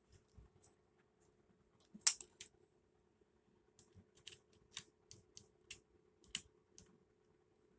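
Light plastic clicks and taps of a small USB LED mini humidifier being handled and fitted together: one sharper click about two seconds in, then a quick run of lighter ticks, over a faint steady hum.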